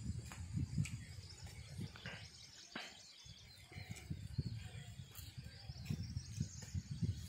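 A man chewing rice and roasted fish eaten by hand, with birds chirping in the background over an uneven low rumble.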